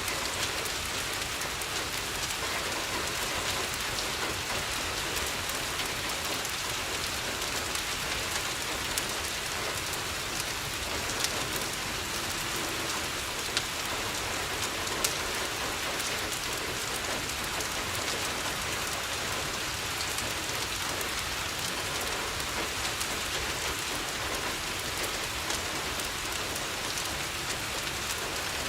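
Steady rain falling on a window, mixed with a few sharp pops from a crackling wood fire.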